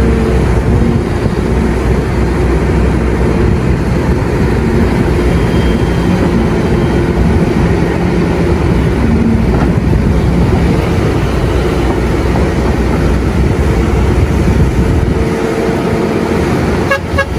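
Doosan DX300 excavator's diesel engine running steadily under working load, its pitch shifting a little as the machine digs and swings. The sound dips briefly near the end.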